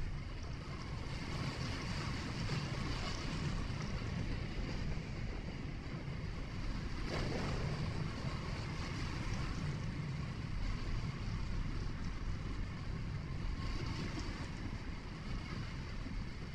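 Steady road and engine noise of a vehicle driving, a low rumble with hiss over it. About seven seconds in there is a brief louder swish.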